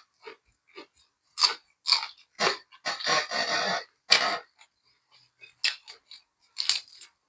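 A person chewing a mouthful of larb gai close to the microphone: wet chewing and crunching in irregular bursts, the longest run about three seconds in, then quieter smacks near the end.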